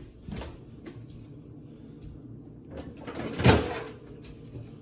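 Kitchen handling sounds: a few light knocks, then one louder thump about three and a half seconds in.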